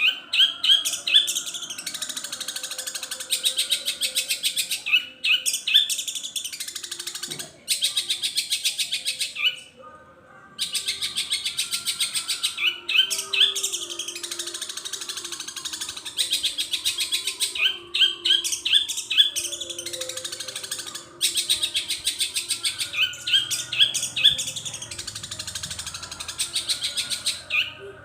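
Long-tailed shrike (cendet) singing a long, very fast chattering song filled with mimicked calls of other birds. Groups of quick rising notes come back every few seconds, and the song breaks off briefly a few times.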